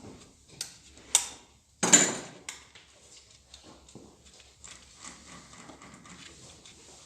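Workshop handling noises: two sharp clinks, then a short, louder rattling clatter about two seconds in, then faint scattered ticks, as parts and hand tools are worked during an engine teardown.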